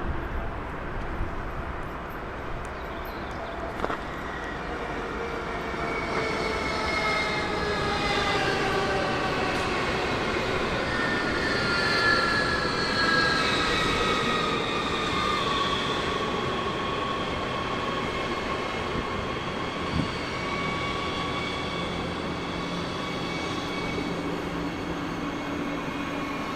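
Electric train running through the station, its traction motors whining in several tones that fall slowly in pitch, over a steady rumble of wheels on rail.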